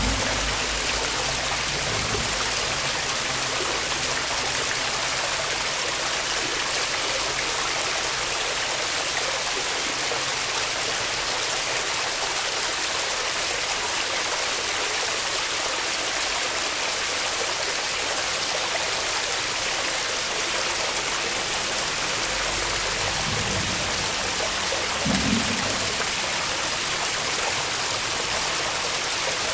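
Waterfall rushing steadily, a constant hiss of falling water. A brief low thump comes near the end.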